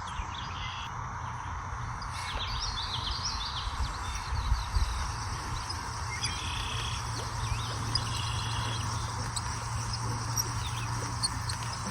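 Small birds chirping and calling in short, repeated notes over a steady background hiss and a low rumble.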